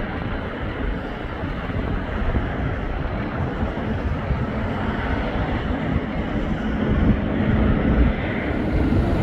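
Airbus A220-300 jet airliner landing, its Pratt & Whitney PW1500G geared turbofans giving a steady rushing roar with low rumble. Wind is buffeting the microphone.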